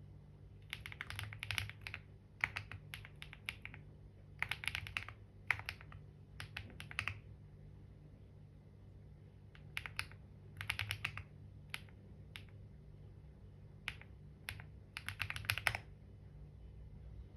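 Computer keyboard typing in short bursts of keystrokes with pauses between them, including a longer pause of about two seconds in the middle. A low steady hum runs underneath.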